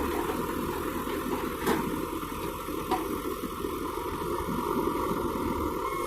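Diesel engine of heavy farm or construction machinery running steadily, with two brief knocks about two and three seconds in.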